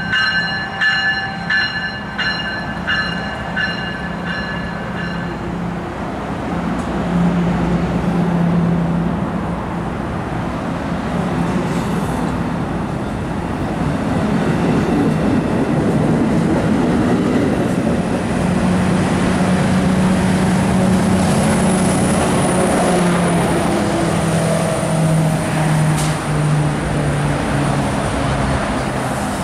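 A train rolling past with a diesel locomotive's engine running under the rumble of the cars. A bell rings about twice a second for the first five seconds or so, then stops.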